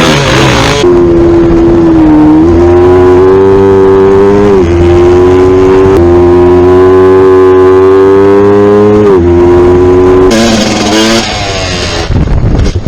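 Motocross bike engine running at high revs, its pitch dipping and climbing back a few times. Near the end it gives way to a rushing noise and a lower rumble.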